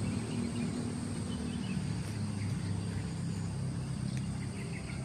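Outdoor nature ambience: faint scattered chirps from birds or insects over a steady low hum.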